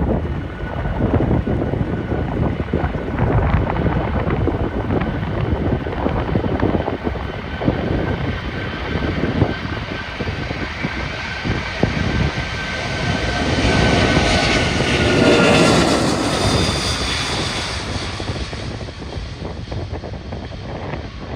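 Boeing 747-400's four turbofan engines at takeoff power as the jet passes close by: a loud jet roar that builds to a peak about two-thirds of the way in, with a whine falling in pitch, then fades. Wind buffets the microphone throughout.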